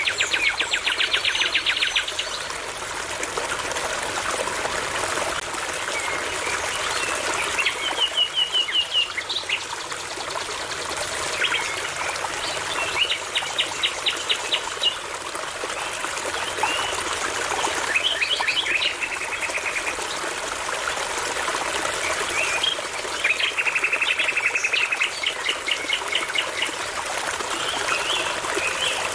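A songbird singing short phrases of rapid repeated notes, about five phrases a few seconds apart, over the steady babbling of a brook.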